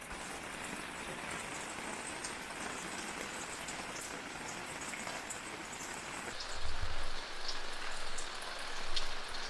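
Steady rain falling, with scattered individual drops ticking. About seven seconds in there is a low thud.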